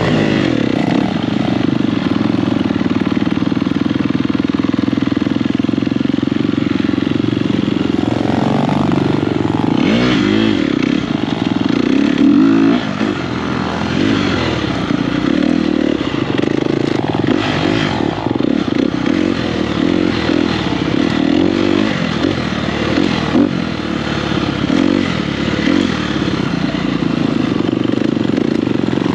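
Dirt bike engine under way, heard up close from the rider's own bike: it runs steadily for the first eight or nine seconds, then the revs rise and fall with throttle changes for the rest of the ride.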